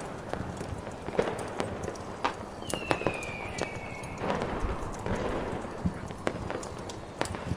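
Irregular sharp crackles and pops from a wood fire and distant fireworks over a steady snowstorm hiss, with one high whistle falling in pitch for about a second and a half, starting near the middle.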